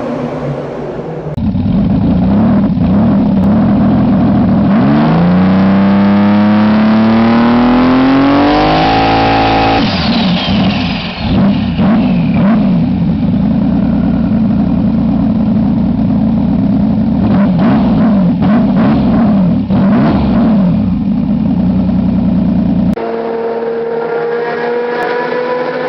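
Nissan 300ZX's V6 engine revving hard, its pitch climbing steadily for about five seconds before dropping sharply, then running on loudly with a wavering note. Near the end it cuts to a quieter engine whose tone rises slowly.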